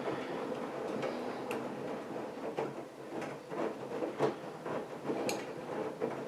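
AEG Lavamat washing machine running a wash cycle, its drum turning: a steady hum with irregular clicks and knocks.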